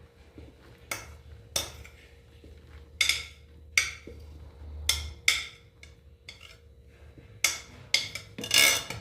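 Kitchen utensil and dishes knocking and clinking irregularly as fresh corn kernels are transferred into a blender jar. There are about ten sharp knocks, coming more often near the end, over a faint steady hum.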